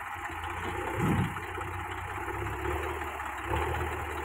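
Heavy machinery engine idling steadily, with a brief louder bump about a second in.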